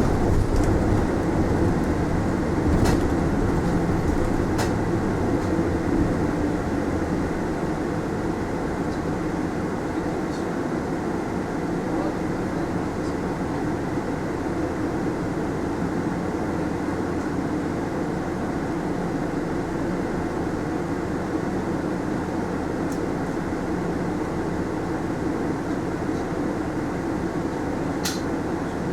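Mitsubishi Fuso Aerostar city bus under way, heard from inside the passenger cabin: steady engine and road noise, a little louder for the first few seconds, with a few faint clicks and rattles.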